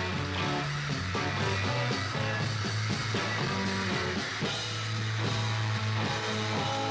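Guitar-led rock music playing steadily.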